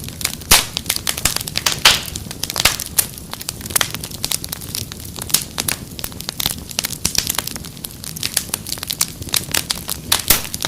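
Wood fire crackling: frequent sharp pops and snaps over a low rumble of the flames.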